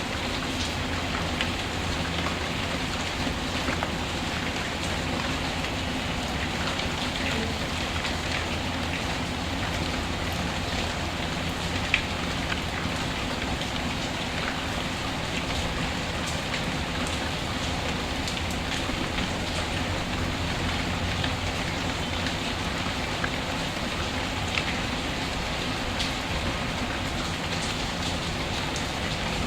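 Steady rain falling, with scattered small crackles from a wood fire in a fireplace and one sharper pop about twelve seconds in.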